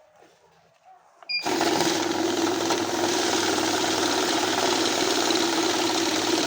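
Banknote counting machine switching on about a second and a half in and running steadily with a loud mechanical whir as it feeds the notes through.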